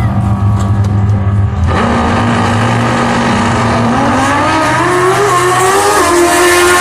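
Drag-racing motorcycles launching and accelerating down the strip. The engines hold near-steady revs, suddenly get louder, then climb in pitch with several step-downs as they shift up through the gears.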